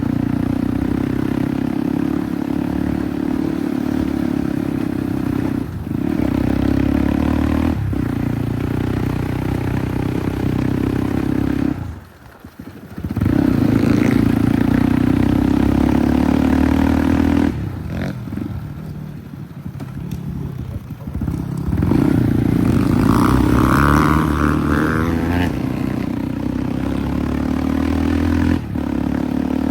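Dirt bike engine running under way, its note rising and falling with the throttle. It drops away sharply for about a second around twelve seconds in, and eases off again from about eighteen to twenty-one seconds before picking up.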